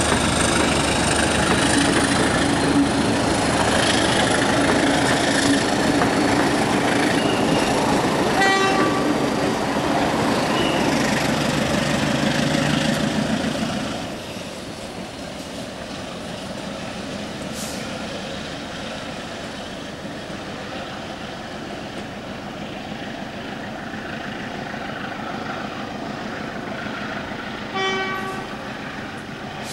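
Train running by loudly, its noise dropping off sharply about halfway through and settling to a quieter steady rumble. A short horn toot sounds about a third of the way in, and another near the end.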